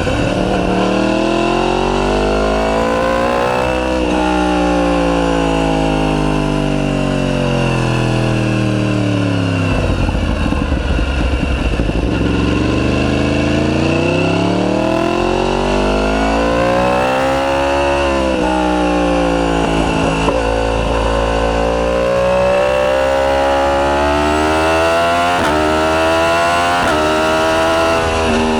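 Yamaha YZF-R1's crossplane inline-four running through a decat full titanium Akrapovic exhaust on the move, its revs rising and falling several times: a long slow fall early on, then climbs under acceleration with a quick drop near the middle.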